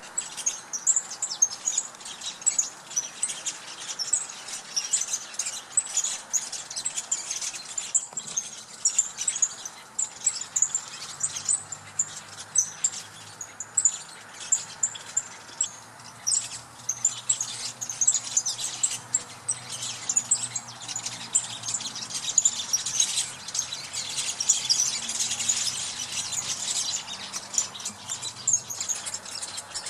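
Mixed flock of small songbirds chirping densely and continuously in a communal roost tree, many overlapping high-pitched calls: the birds gathering to roost at dusk. A faint low hum sits underneath in the second half.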